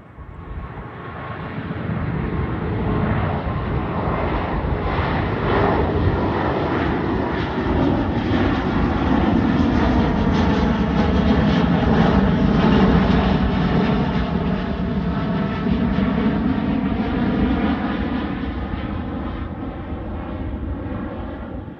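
Jet engines of a Boeing 787-9 passing close by: a loud, steady rumble and hiss that builds over the first couple of seconds, holds, then eases off near the end, with a slowly falling sweep running through it as the aircraft goes past.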